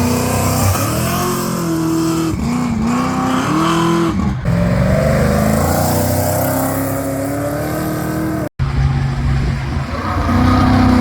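V8 muscle car engines revving: several quick rises and falls in pitch, then a longer climbing pull as a car accelerates. The sound drops out abruptly about eight and a half seconds in, and an engine note picks up again, climbing near the end.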